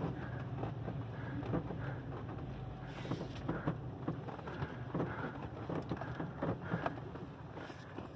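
Four-wheel-drive vehicle's engine running low and steady while crawling up a rough trail, with scattered small rattles and knocks.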